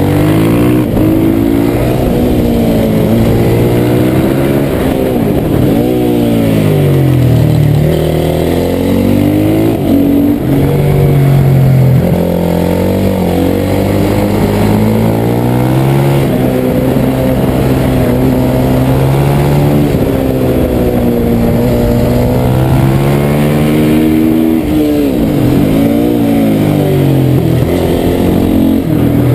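TM 450 MX supermoto's single-cylinder four-stroke engine at racing pace, heard from on board: it revs up through the gears and drops back when the rider slows for corners, over and over.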